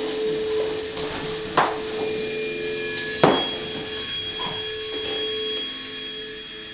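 Steady held humming tones, with two sharp knocks about a second and a half apart, the second one louder.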